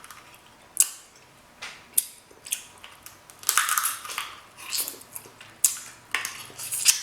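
King crab leg shells cracking and snapping, several sharp cracks a second or so apart, mixed with short bursts of close-up eating noise as the crab meat is bitten and chewed.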